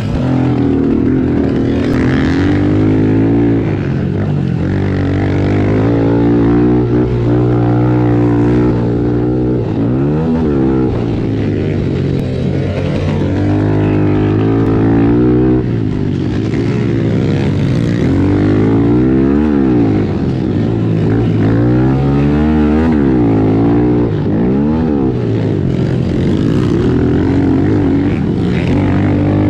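Several 110 cc single-cylinder four-stroke pit bikes racing, their engines revving up and dropping back over and over with throttle and gear changes. The pitches of the different bikes overlap and cross.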